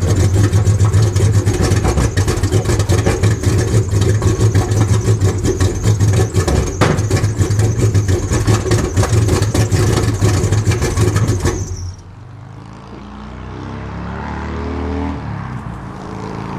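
1994 Cadillac V8 running with no exhaust system, only the headers open right before where the catalytic converter was: loud, with a rapid pulsing blat. The noise drops off sharply about twelve seconds in. The engine has been running poorly, and its owners have found that the catalytic converter was not the cause.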